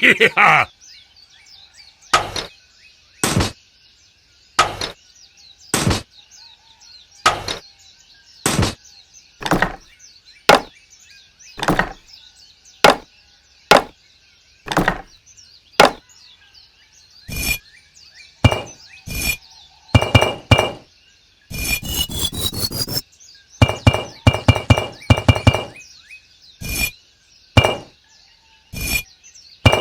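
A steady series of sharp knocks, roughly one a second, with a quick run of rapid clicks about two-thirds of the way through; faint music underneath.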